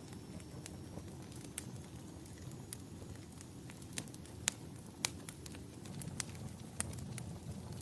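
Wood fire in a fireplace crackling: irregular sharp pops and snaps, two louder ones about halfway through, over a low steady rumble.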